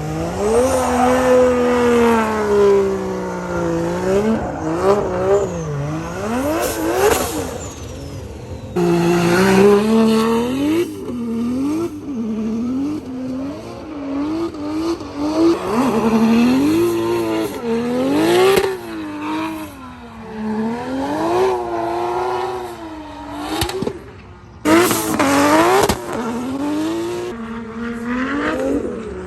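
Drift car engine revving hard, its pitch climbing and dropping again and again as the throttle is worked, with a couple of abrupt breaks.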